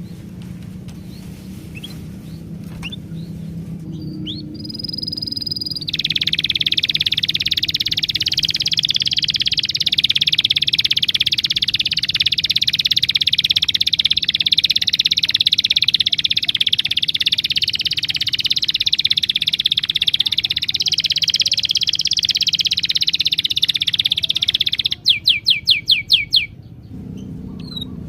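Many birds chirping together in a dense, continuous chorus that starts abruptly about six seconds in and cuts off near the end, followed by a quick run of about eight loud chirps.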